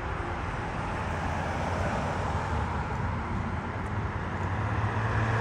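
A motor vehicle running: a steady rushing noise over a low hum, growing slightly louder toward the end.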